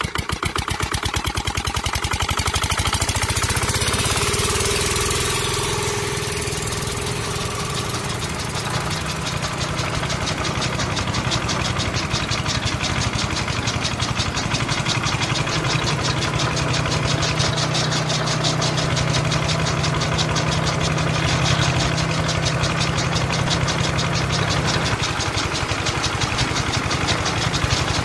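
Miniature model diesel engine running steadily with a fast, even knocking, driving belt-driven toy chaff cutters.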